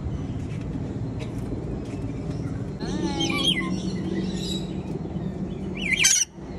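Birds calling over a steady low background hum. One pitched, bending call comes about halfway through, and a loud burst of sharp high chirps comes near the end.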